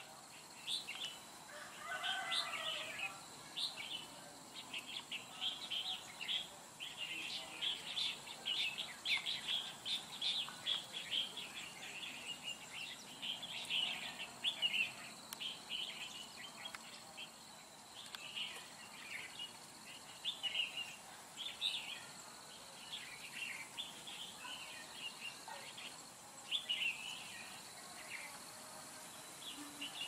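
Red-whiskered bulbuls calling: many short chirping notes in quick runs, busiest in the first half and sparser later. A faint steady high tone runs underneath for a while.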